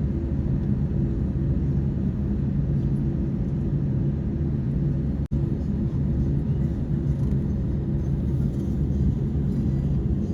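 Steady low rumble and hum of an airliner's engines heard inside the cabin after landing. There is a very brief break in the sound about five seconds in.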